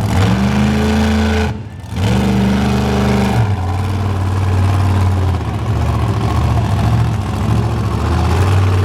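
Monster truck engine running hard under heavy throttle, with a brief lift off the throttle about a second and a half in before it pulls again.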